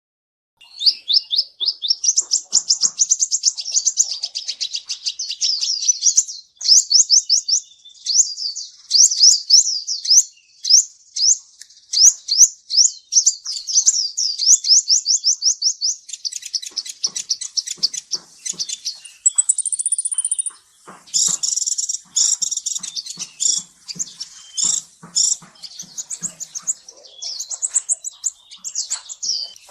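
Kolibri Ninja sunbird singing: long runs of rapid, high-pitched twittering trills, turning choppier and busier in the second half, with a brief higher whistled note near the middle.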